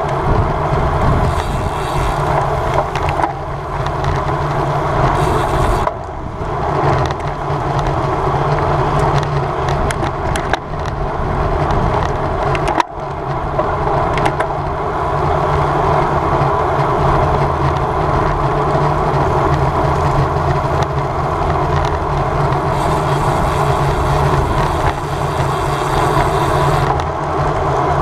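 Steady rush of wind on the microphone and tyre noise from a road bicycle rolling at race speed, with brief dips about six and thirteen seconds in.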